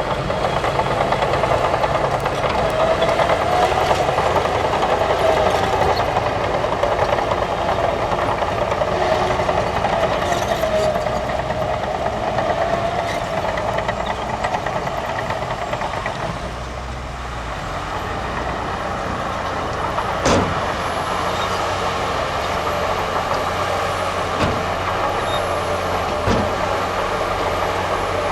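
Heavy diesel earth-moving machinery, bulldozers and dump trucks, running steadily under load. A few sharp clanks come in the second half.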